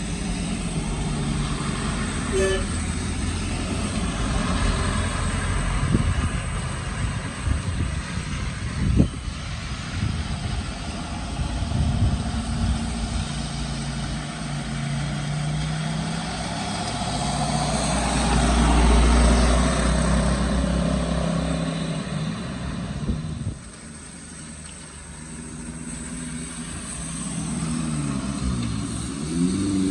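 Road vehicles, among them heavy trucks, driving slowly through a bend with engines running. A deep low rumble builds and peaks past the middle, cuts off suddenly, then an engine revs up with rising pitch near the end.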